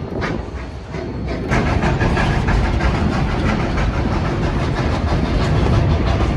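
Rumble and rattle of a moving passenger train heard on board, the wheels running over the rails and the cars rattling. It steps up in loudness about a second and a half in and stays there.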